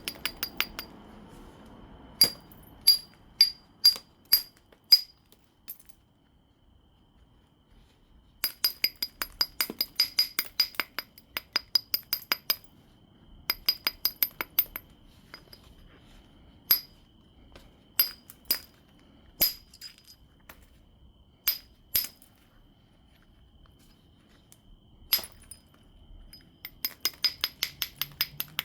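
Obsidian biface being tapped with a knapping tool, giving sharp, glassy clicks. It starts with single strikes about half a second apart, then comes in quick runs of many light taps with scattered single strikes between them.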